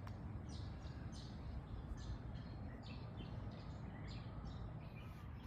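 Small birds chirping, short high chirps about twice a second, over a low steady background rumble.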